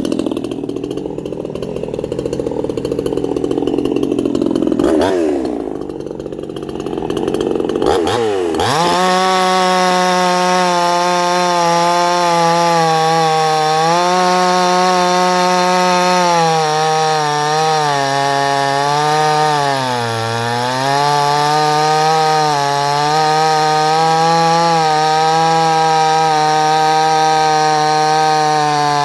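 58cc Chinese two-stroke chainsaw cutting wood for about the first eight seconds, its pitch wavering under load. It then runs on steadily at high revs, with a few brief dips in pitch.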